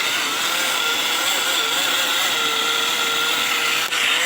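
Portable rechargeable mini blender (juicer cup) running steadily, its small motor blending whey and sliced banana, with a slightly wavering hum. The level dips briefly just before the end.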